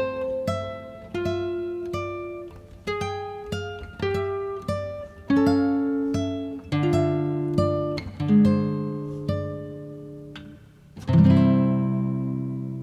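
Background music: an acoustic guitar picking single notes, then a strummed chord about eleven seconds in that rings out and slowly fades.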